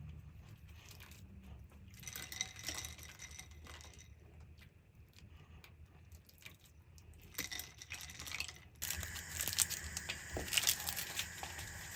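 Cooking handling sounds: scattered light clicks, clinks and rustling of food and utensils, then a steady hiss that starts suddenly near the end with more clicks over it.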